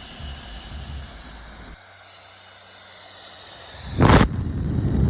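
A steady high hiss, then a sharp knock about four seconds in, after which a loud rushing air noise starts and keeps going: an H11 high-speed hair dryer blowing.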